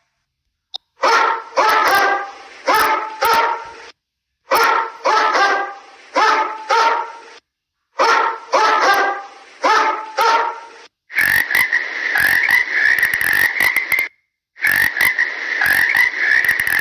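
Frog croaking: three groups of four or five quick, pitched croaks separated by short pauses, then a nearly continuous rasping trill on a steady high note lasting about six seconds.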